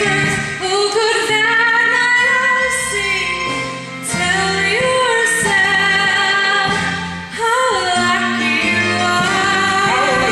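A female voice singing a musical-theatre number over instrumental accompaniment, sliding between held notes.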